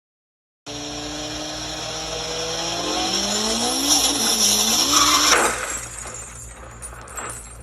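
Car engine revving up, its pitch rising steadily as it gets louder, with a high tire squeal joining in; it breaks off sharply about five and a half seconds in and trails away.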